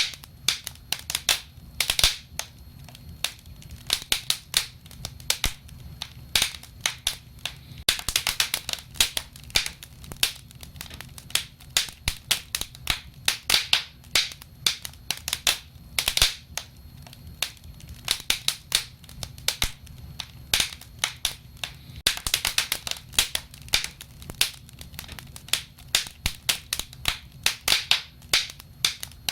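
Wood fire crackling and popping: irregular sharp snaps with denser flurries of crackles a few times, over a low steady rumble.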